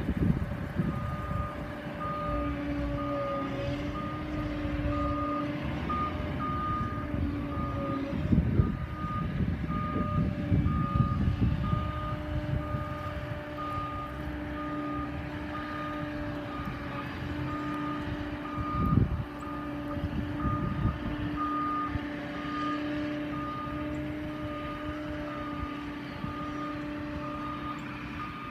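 Reversing alarm of a hi-rail work vehicle beeping steadily over its engine running, as it backs on or off the railroad track. Two heavy clunks stand out, about a third of the way in and again about two thirds of the way in.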